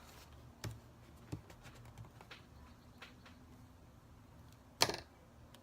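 Faint scattered taps and clicks of paper collage pieces being handled and pressed onto a journal page, with one louder short handling sound near the end.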